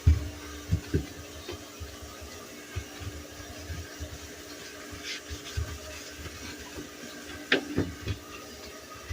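Refrigerator-cleaning handling sounds: scattered low thuds and knocks of items and parts being moved and set down, with a sharp click about seven and a half seconds in, over a faint steady hum.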